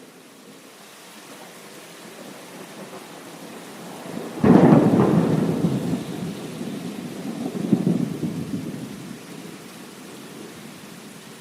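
A thunderclap breaks suddenly about four seconds in and rolls on as deep rumbling, with a second swell a few seconds later before fading. Steady heavy rain hisses underneath.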